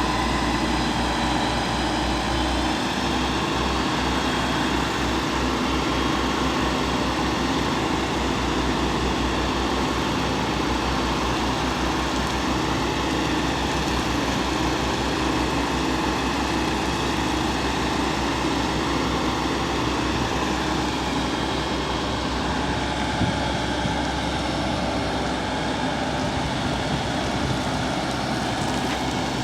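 Fire truck engine running steadily at an even speed, a constant low hum without revving.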